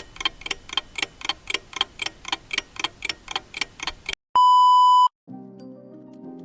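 Clock-ticking sound effect, about four even ticks a second, stopped a little past four seconds in by a single long, steady beep; soft music notes begin just after.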